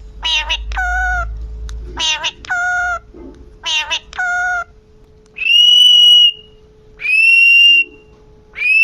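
Pet parrot calling: three pairs of short notes, each a quick upward sweep followed by a steady lower note, then three long high whistles that slide up and hold, each just under a second.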